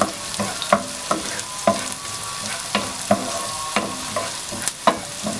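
Chopped onion sizzling in hot oil and butter in a pan while being stirred, the utensil knocking and scraping against the pan a couple of times a second.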